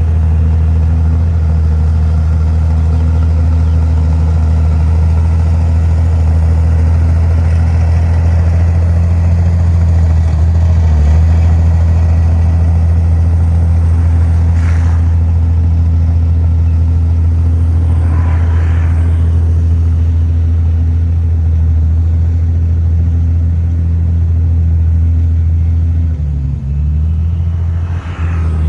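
Heavy diesel engine of earthmoving machinery running steadily, with a brief dip in level near the end.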